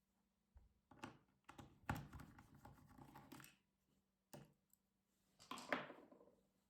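Hands handling a laptop's plastic casing: a few light clicks and taps, with a longer scraping rustle about two seconds in and another near the end.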